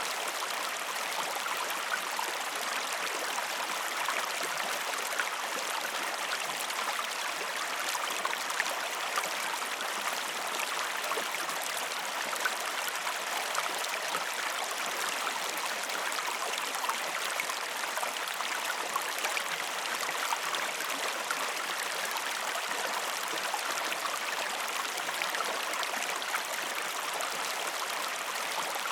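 River water flowing steadily, a continuous rushing with many small splashes and burbles through it.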